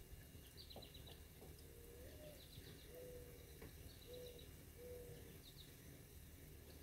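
Faint birdsong: a dove cooing, one low note that slides upward followed by three short steady coos, with brief high chirping trills from a small bird every second or so.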